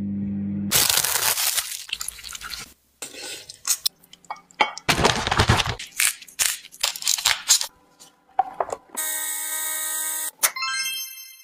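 Groceries and plastic containers being handled and set down: crinkling packaging, clicks, knocks and clatter. A steady pitched tone sounds near the end and finishes in a short ringing chime.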